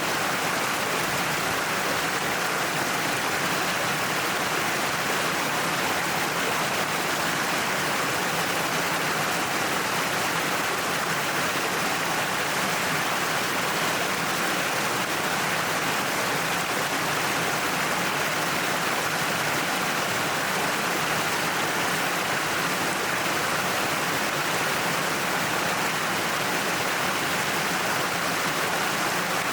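Natural waterfall pouring down a cliff face: a steady, even rush of falling and splashing water with no change in level.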